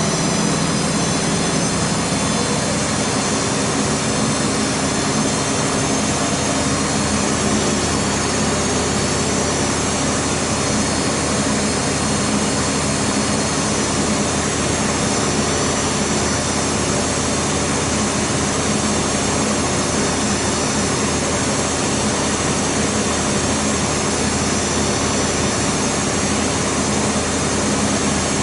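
BEKO WMB 51441 washing machine spinning at high speed in its 1000 rpm spin: a loud, steady motor whine over the rush of the drum, holding an even speed.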